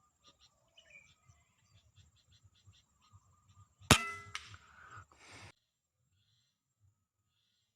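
A single air rifle shot about four seconds in, sharp and with a short metallic ring, followed by a second or so of rustling noise that cuts off suddenly.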